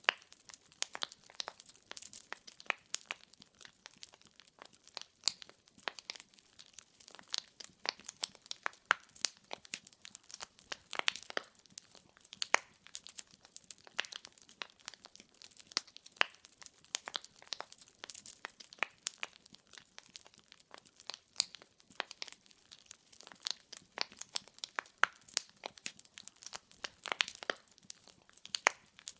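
Firewood logs burning in a fireplace, crackling and popping in dense, irregular snaps over a soft hiss of flame.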